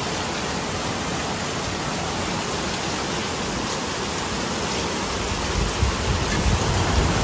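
Heavy rain pouring steadily onto corrugated roof sheets, a continuous even hiss. A few low bumps show up near the end.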